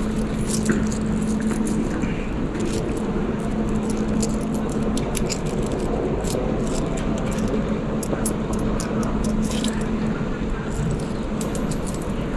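Airport terminal background: a steady droning hum with scattered light clicks and clinks, like small objects being handled.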